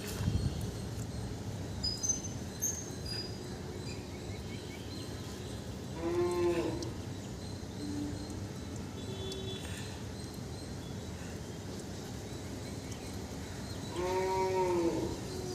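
A drawn-out animal call sounds twice, about eight seconds apart, each rising and then falling in pitch. Faint, short high chirps of small birds come in between.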